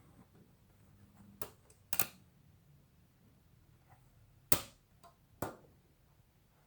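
Umbrella frame parts (runner, spring and rod) clicking and knocking as they are handled and adjusted: a handful of sharp clicks, the loudest about two seconds and four and a half seconds in.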